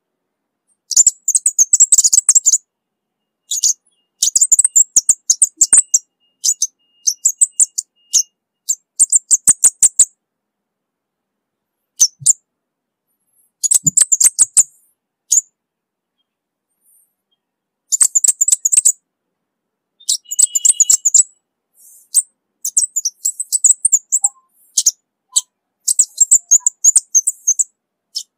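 Orange-bellied flowerpecker singing: rapid, very high, thin chittering notes in loud bursts of one to two seconds, separated by short pauses.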